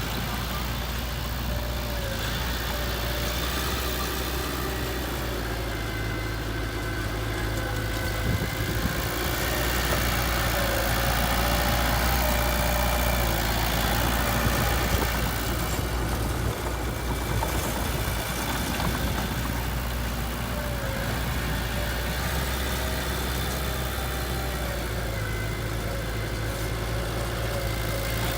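Heavy machine's engine running steadily at a low, even pitch, growing a little louder for a few seconds in the middle.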